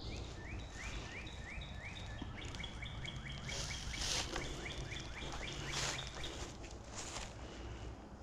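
A songbird singing a run of short, rising chirps that start a few a second and quicken to about four or five a second around the middle, then slow again. A few brief scuffs and rustles are mixed in.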